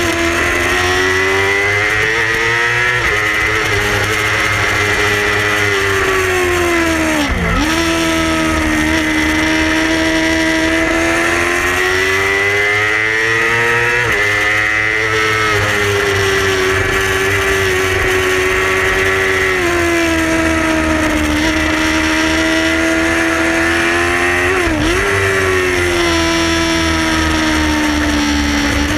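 Yamaha R6 600 cc inline-four racing motorcycle engine at high revs under race throttle. Its pitch climbs and steps down through gear changes, and it dips sharply twice, about a third of the way in and again near the end, as the throttle is shut.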